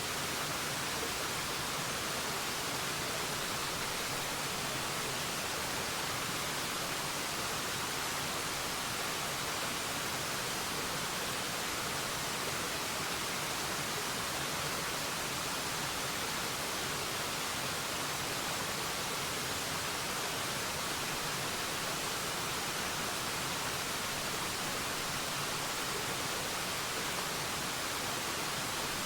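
Waterfall, water falling in a steady, unbroken rush, most of it a high hiss.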